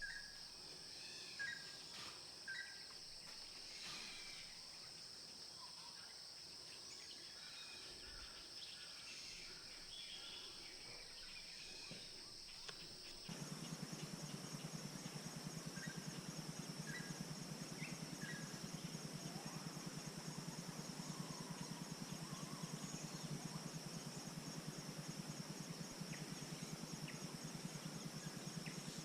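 Faint insect chorus: a steady, high-pitched shrill held throughout, with a few short bird chirps. About halfway there is a sudden change to a recording that also carries a steady low hum.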